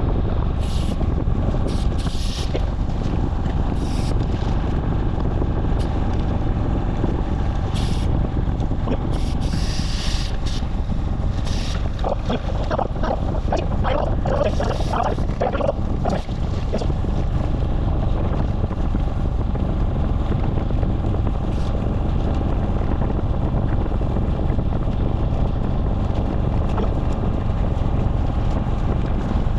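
Wind rushing over the microphone of a moving motorcycle: a steady, loud low rumble. A brief wavering pitched sound comes about halfway through.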